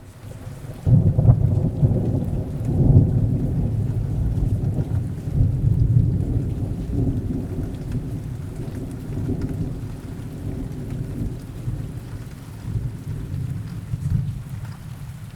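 Steady rain with a long, low rumble of thunder that breaks in about a second in and slowly dies away.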